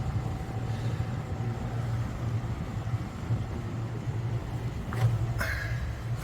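Sailing yacht's engine running steadily as the boat motors under power with no sails set, a low even hum. A couple of brief sharper sounds come about five seconds in.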